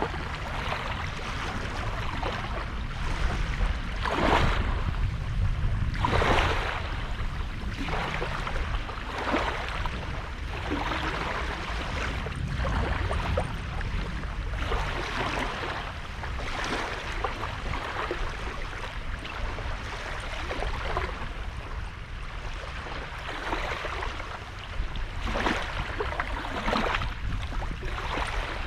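Sea waves breaking and washing up the shore one after another, a swell of hiss every second or two, the loudest about four and six seconds in, over a steady low rumble.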